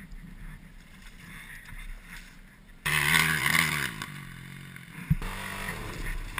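Enduro motorcycle engine running at low revs, then revved hard about three seconds in for a couple of seconds, with a sharp knock about five seconds in before it settles to a steadier run.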